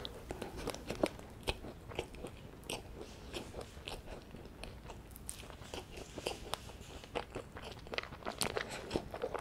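Chewing a bite of rice scone with nuts in it: a steady run of small crisp crunches and crackles that grows denser near the end.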